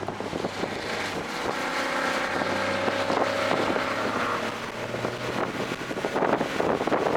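Toyota GR Corolla's turbocharged 1.6-litre three-cylinder engine, breathing through an aftermarket intake, pulling hard on track, with wind noise over it.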